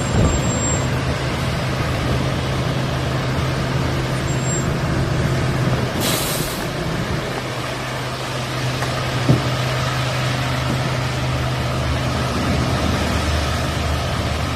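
A large vehicle's engine running steadily under a noisy rush, with a short sharp hiss about six seconds in and a single click a few seconds later.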